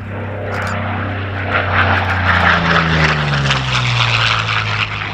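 Curtiss-Wright P-40N Warhawk's Allison V-12 engine and propeller in a very low, fast pass. It gets louder to a peak about two seconds in, then drops in pitch as it goes by.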